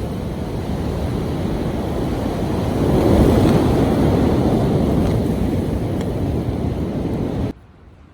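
Blizzard wind gusting hard, with wind buffeting the microphone. The rush swells to its loudest gust about three seconds in and cuts off abruptly near the end.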